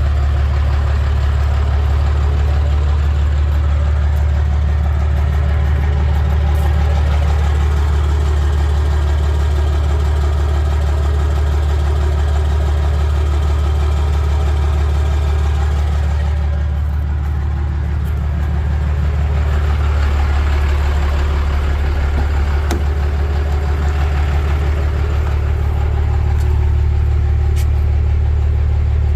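Straight-piped 12-valve Cummins 5.9 turbo diesel idling steadily with a deep tone, through a 4-inch straight pipe and stack.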